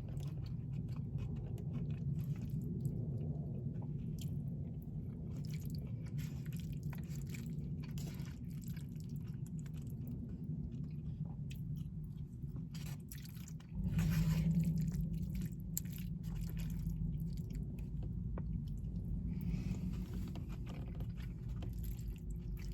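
Close-miked chewing and wet mouth clicks of someone eating brisket, over a steady low hum that grows louder about two-thirds of the way through.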